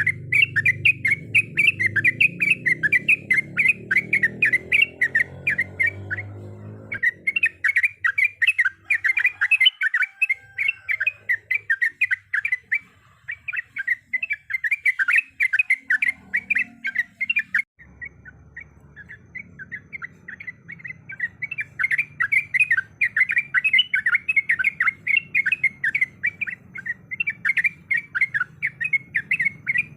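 Yellow-vented bulbul (trucukan) singing a long, fast run of chattering notes, many to the second, breaking off briefly twice.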